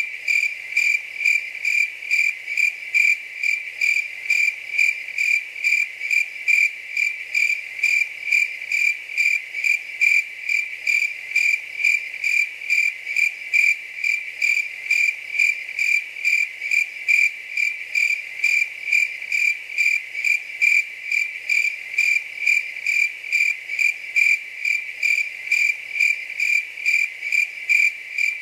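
A cricket chirping steadily, about three evenly spaced high-pitched chirps a second.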